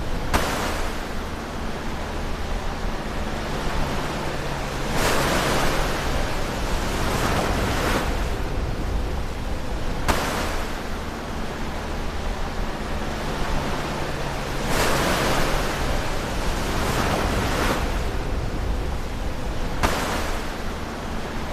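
Ocean waves breaking close to shore: a steady wash of surf that swells into a louder breaking wave about every ten seconds, with a low rumble underneath.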